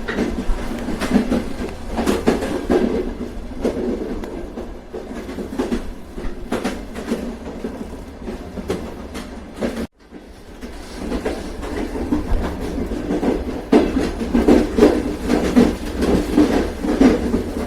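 Train running on the rails, its wheels clacking in an uneven rhythm with a steady low rumble. The sound cuts out for an instant about ten seconds in, then carries on.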